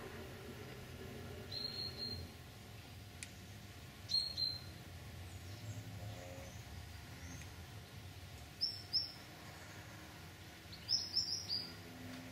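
A small songbird chirping in short groups of two or three high notes, four times, over a faint steady low hum.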